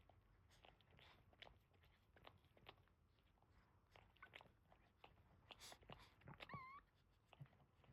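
Faint, irregular wet licking and mouth clicks of a Boston terrier mother cleaning her newborn puppies. A newborn puppy gives one short, wavering squeak about six and a half seconds in.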